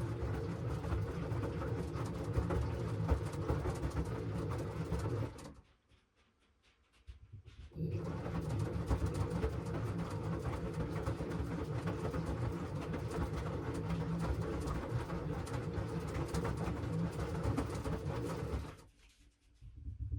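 LG washing machine drum turning and tumbling the wash load, a steady low rumble and churn. It stops for about two seconds about five and a half seconds in, starts again, and stops once more near the end: the drum's stop-and-start tumbling pattern during the wash.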